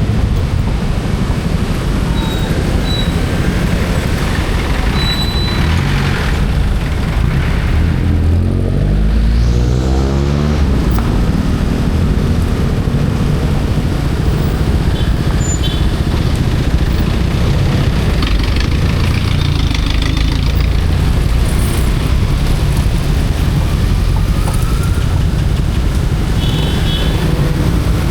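Motorcycle engine running steadily during a ride. About eight seconds in, the engine revs up and its pitch rises for a couple of seconds.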